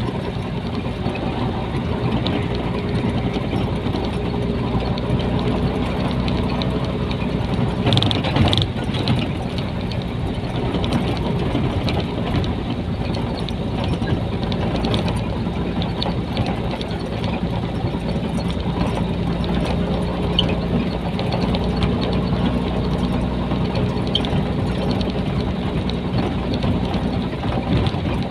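Nissan Diesel container truck's diesel engine running steadily on the move, heard from inside the cab, with a brief louder clatter about eight seconds in.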